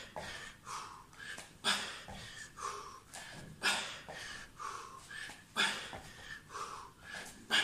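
A person breathing hard from exertion, with sharp, noisy exhales about once a second and a stronger one every two seconds.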